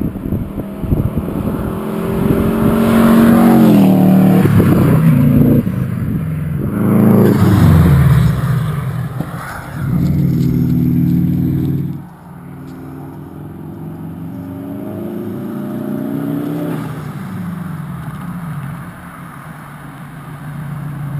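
Subaru Impreza WRX's turbocharged flat-four engine driving past under hard acceleration, its note loud and rising and falling in pitch several times. About twelve seconds in the level drops suddenly, and the engine goes on more quietly, building again near the end.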